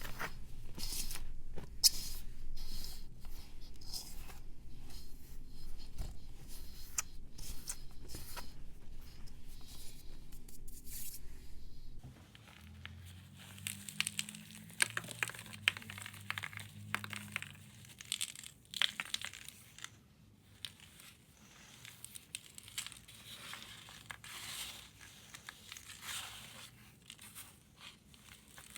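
Close-up crumbling and crunching of pressed powder blocks, a dense run of small crackles and snaps. About twelve seconds in, the sound changes abruptly to quieter, intermittent crunching and scraping.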